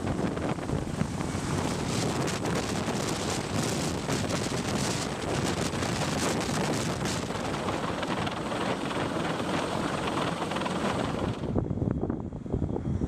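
Loud, steady rushing noise with wind buffeting the microphone, as from an aircraft running nearby. Near the end it changes abruptly as the high hiss drops away.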